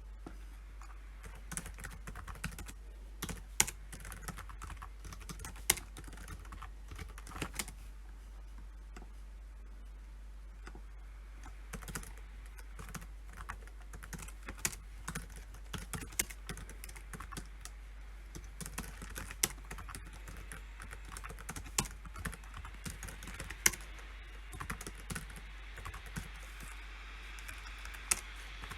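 Typing on a computer keyboard in runs of quick keystrokes, with a pause of a few seconds early on and a handful of louder single key strikes among them.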